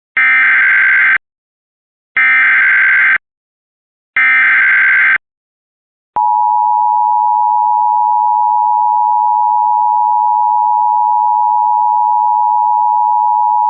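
Emergency Alert System SAME header: three one-second bursts of digital data tones, each followed by a second of silence, then the steady two-tone EAS attention signal held for about eight seconds. Together they mark the start of a broadcast flash flood warning.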